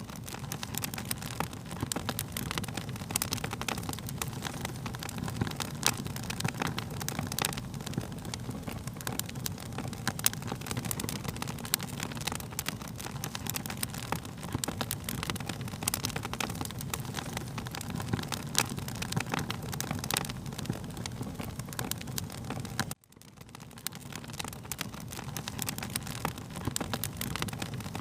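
Wood fire crackling, with frequent sharp pops and snaps over a low steady rumble of burning. About 23 seconds in, the sound cuts out suddenly and fades back in, as a looped recording restarts.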